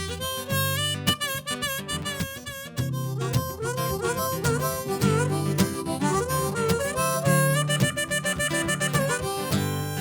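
Instrumental break of a harmonica playing a fast run of notes over strummed acoustic guitar in an indie folk-blues style.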